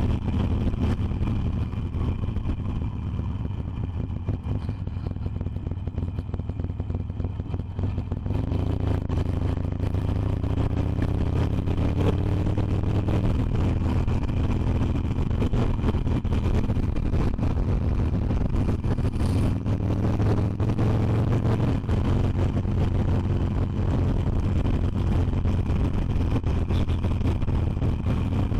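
Harley-Davidson Iron 883's air-cooled V-twin running steadily on the move. Its note climbs in pitch for a few seconds partway through as the bike picks up speed.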